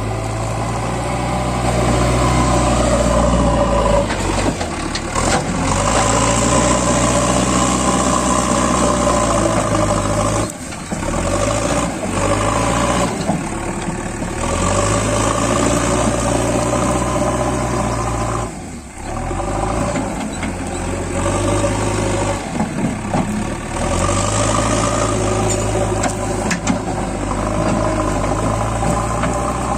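JCB 3DX backhoe loader's diesel engine working under load, its note swelling and easing in long stretches, with short drops about ten and nineteen seconds in.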